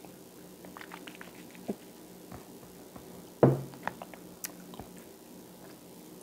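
Close-miked mouth sounds of someone chewing peanut-butter toast, small wet clicks and smacks, with one much louder thump about three and a half seconds in. A faint steady hum lies under it.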